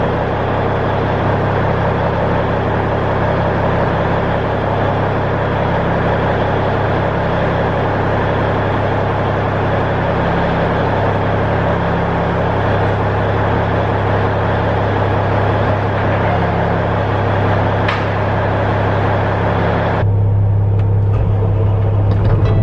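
Semi truck's diesel engine running steadily with a strong low hum. Near the end the higher part of the sound drops away, leaving a deeper, louder drone.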